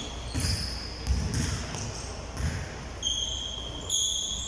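Basketball being dribbled on a hard indoor court: a few uneven thumps about a second apart, with high-pitched tones running over them.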